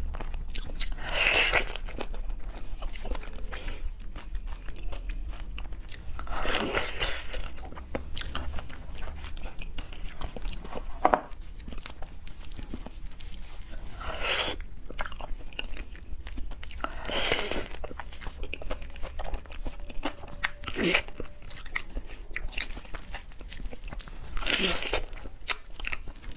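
Close-miked eating of seafood: chewing and biting, with about six louder wet mouth noises spaced a few seconds apart.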